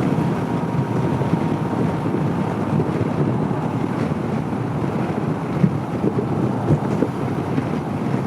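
Steady wind rushing over a motorcycle rider's microphone while riding a 2014 Honda CB500X, mixed with road noise and no distinct engine note.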